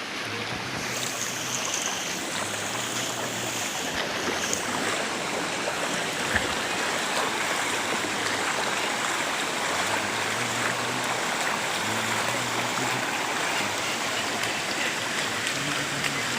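Floodwater rushing and flowing in a steady, continuous wash.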